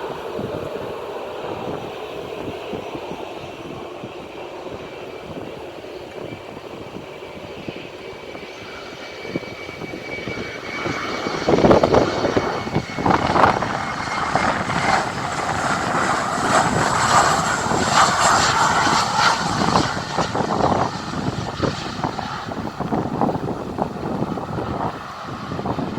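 Jet airliner coming in to land and passing close overhead: its engine noise builds from about ten seconds in, with a high whine strongest in the middle of the pass, then eases off, over wind buffeting the microphone.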